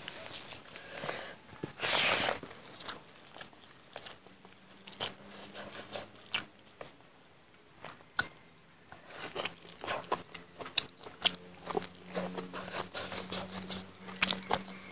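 Close-up mouth sounds of eating chicken curry and rice by hand: chewing, biting and many small wet clicks and smacks. There is a louder burst of noise about two seconds in.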